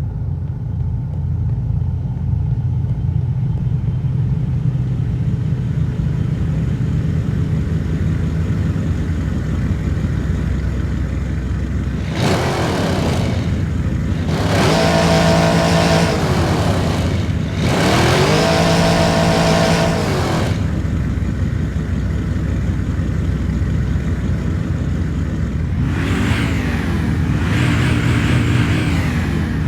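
Car engine idling steadily, then revved: about twelve seconds in the pitch climbs, holds high for a few seconds and drops back, and it does so again right after. It then idles, and a third rev begins near the end.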